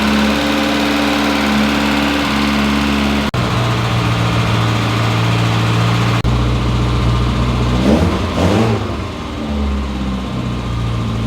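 1970 MG Midget's 1275 cc four-cylinder engine running at a steady idle. About eight seconds in, a quick blip of the throttle makes the engine speed rise and fall back to idle.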